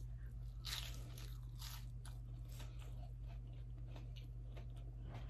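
A person eating close to the microphone: crisp bites and chewing, with the clearest crunches about a second and two seconds in.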